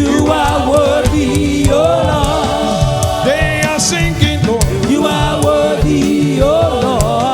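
Gospel praise music: a choir singing with instrumental accompaniment, steady and loud.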